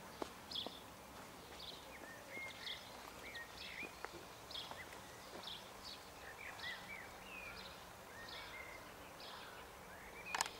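Birds calling: a short, high note repeated about twice a second, with other chirping in between, over faint outdoor noise. Near the end, a quick run of sharp clicks.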